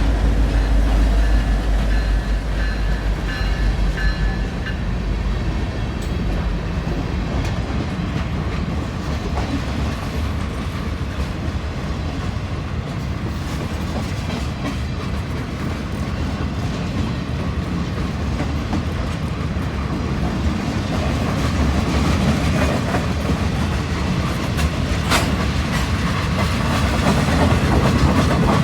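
Freight train passing: a diesel locomotive's low engine rumble fades over the first few seconds, then the wagons roll by steadily, wheels clicking over the rail joints.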